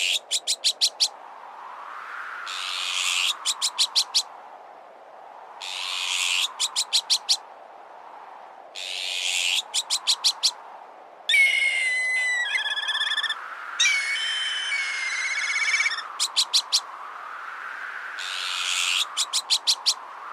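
Bird-repellent sound mix: a harsh call followed by a rapid run of five or six sharp notes repeats about every three seconds, in the manner of azure-winged magpie alarm calls. Between about 11 and 16 seconds in, whistled calls with gliding, trilling pitch come in, typical of a black kite. A soft wind noise rises and falls beneath.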